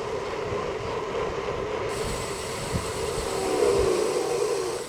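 Gravel bike's front disc brake dragging as the bike is ridden with the lever held, the freshly sanded pads rubbing on the rotor to bed in. A steady rubbing hum with a wavering tone, loudest shortly before it stops near the end.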